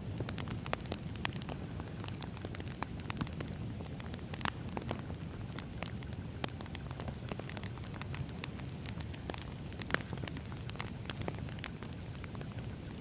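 Wood fire crackling, with many irregular sharp pops over a steady low rumble of the flames.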